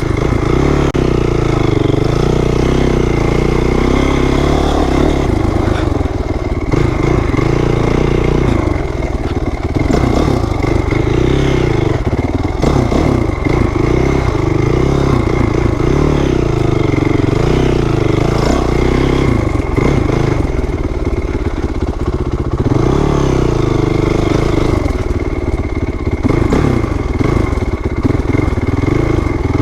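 2008 Honda CRF450R's single-cylinder four-stroke engine running under way, its pitch rising and falling as the throttle is opened and closed.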